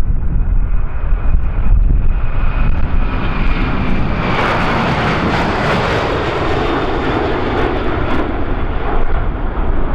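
Jet airliner's engines at takeoff power as it rolls and climbs out past; the sound swells to its loudest about halfway through, then eases off.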